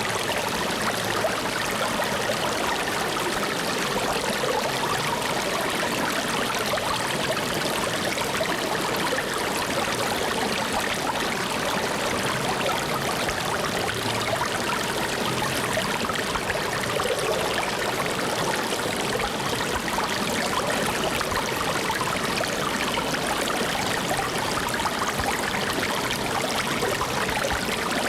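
Water flowing steadily, an even unbroken wash of sound with no drips or splashes standing out.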